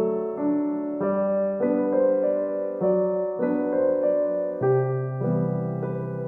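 Background music: a gentle, slow piano piece, with soft notes and chords struck about every half second.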